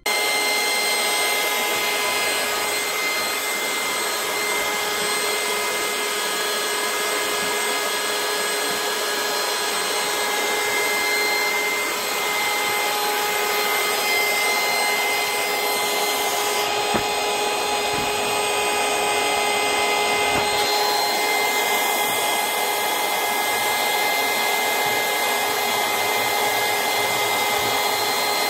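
Battery-powered portable mini air pump running steadily: a motor whine with a few steady tones over a continuous rushing of air.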